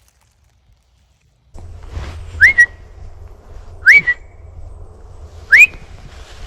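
Three short rising whistles about a second and a half apart, each a quick upward slide ending on a brief held note, over a steady low rumble that starts abruptly about a second and a half in.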